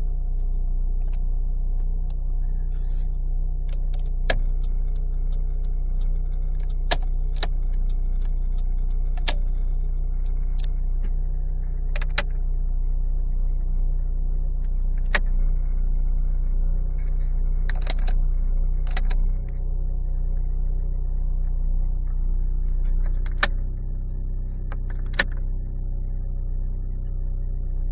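Volkswagen Polo engine idling at about 1,000 rpm, a steady low hum, with a dozen or so sharp clicks at irregular moments.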